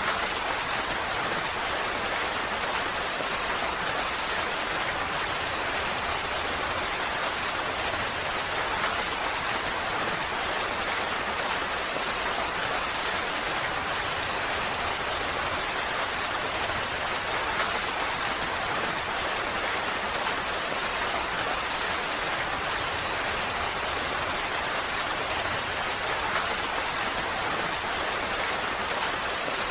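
Steady rain falling, an even hiss with a few slightly louder drops standing out now and then.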